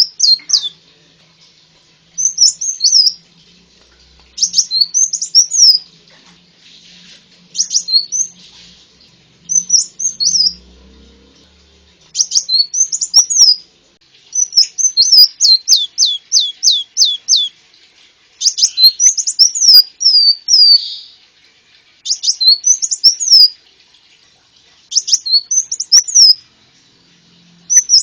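Konin (sunbird) song played as a lure recording: short bursts of rapid, high, sharply down-slurred chirps, each phrase lasting one to two seconds, repeated about every two to three seconds with brief pauses.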